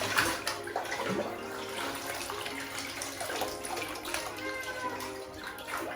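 Water sloshing and splashing in a partly filled bathtub as a cat is washed in it, with irregular small splashes throughout.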